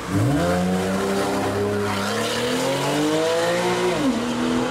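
Supercar engine accelerating hard: the note jumps up as it pulls away, climbs steadily for about four seconds, then falls and levels off near the end.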